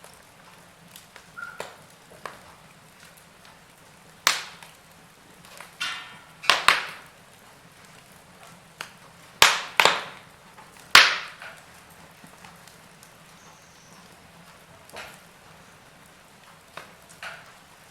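Wood fire crackling in a fireplace: irregular sharp pops and snaps over a faint steady hiss, with the loudest cracks about four, six and a half, nine and a half and eleven seconds in.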